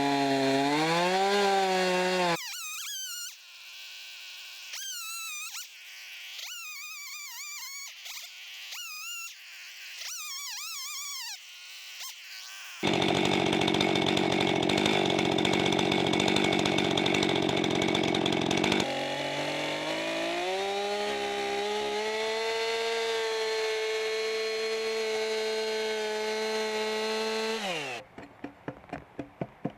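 Chainsaw running at speed and cutting into timber, with a quieter stretch of thin, wavering high whines between cuts. Its note drops away about 28 seconds in, followed by a quick run of sharp clicks.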